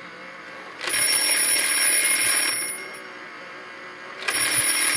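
Palitoy Bradgate talking telephone toy's bell ringing in two bursts of about two seconds each, its battery-driven hammer rattling rapidly against the small bell.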